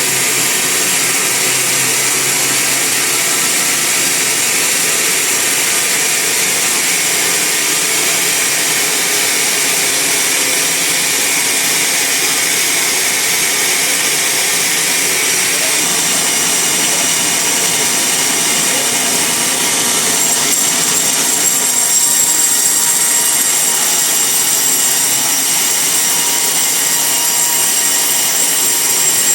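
Band sawmill running and sawing through a log: a steady, loud machine noise with a high, hissing whine. About two-thirds of the way through, the high whine grows brighter and the sound a little louder.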